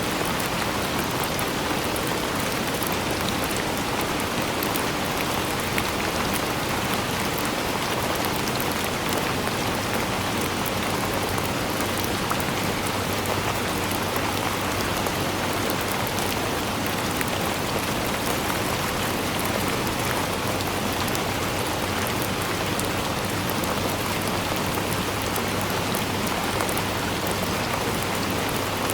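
Steady rainfall: a dense, even patter of drops hitting surfaces, with fine individual drop ticks over a constant hiss.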